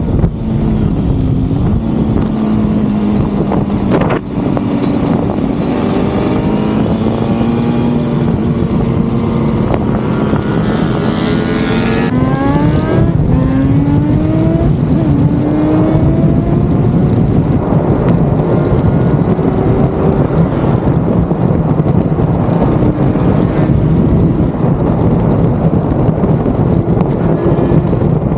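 Suzuki RG500 Gamma's two-stroke square-four engine pulling under load from the rider's seat, its pitch rising and dropping back several times as it goes up through the gears, over heavy wind rush on the microphone.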